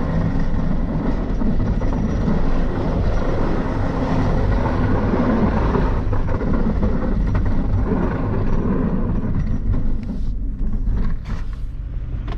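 Plow truck's engine running with steady road noise as it drives.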